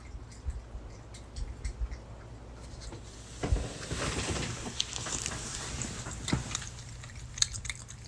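A dog moving about in a small room: scattered light clicks, with a few seconds of breathy noise about halfway through.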